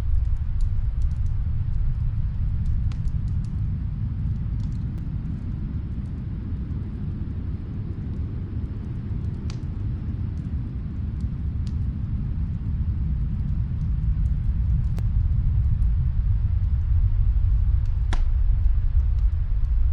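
Snowstorm wind as a steady low rumble that eases a little in the middle and swells again near the end, with faint, sparse crackles from a fireplace.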